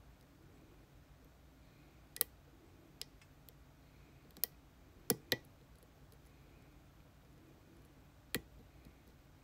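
Challenge lock being picked: about six sharp, irregular clicks of a metal pick and tension wrench working inside the lock, two of them in quick succession about halfway through.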